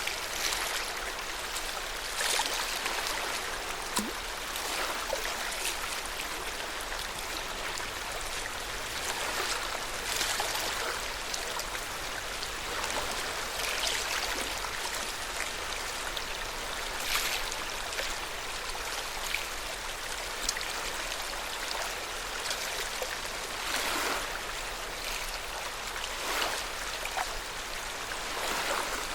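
Lake water lapping at the shore: a steady wash with soft splashes every second or two.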